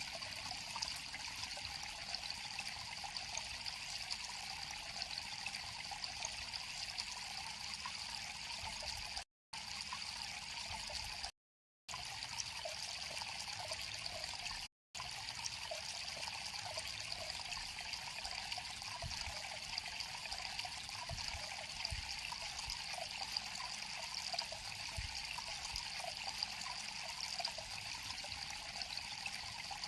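River water flowing and trickling steadily. The sound cuts out to dead silence three times, briefly, in the middle stretch.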